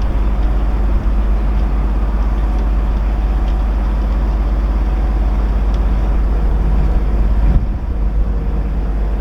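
Narrowboat's diesel engine running steadily while cruising, with a brief bump about seven and a half seconds in.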